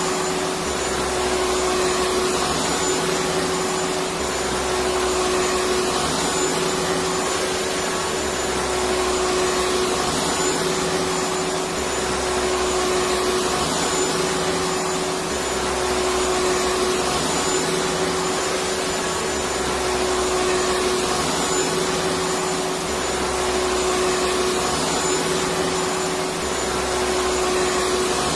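Vacuum cleaner running steadily: a continuous rushing whir with a steady hum and a faint high whine, and a low throb that comes and goes about every two seconds.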